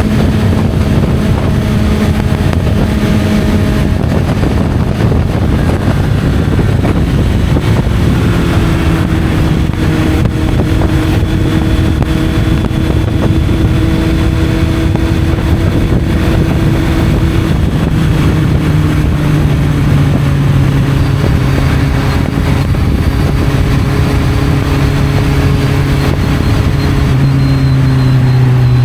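Honda CB650F inline-four motorcycle with an Arrow aftermarket exhaust, running under way with rumbling wind and road noise. The engine note holds steady for stretches and changes pitch a few times, then falls slowly over the last few seconds as it eases off.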